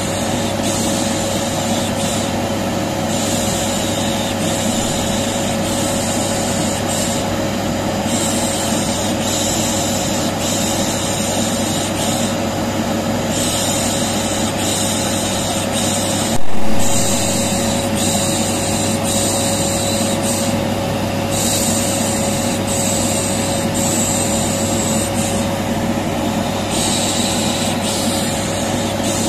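Vacuum cleaner running steadily, a constant hum with a whining tone, overlaid with a repeated 'shh shh' shushing. There is one sudden loud knock about halfway through.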